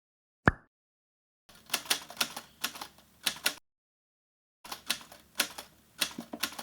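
A single sharp click, then two bursts of rapid clicking taps, each about two seconds long, like keys being struck.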